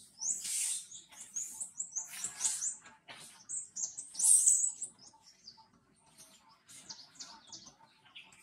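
Birds chirping: a string of quick, high chirps with several harsher, louder calls among them, the loudest about four seconds in.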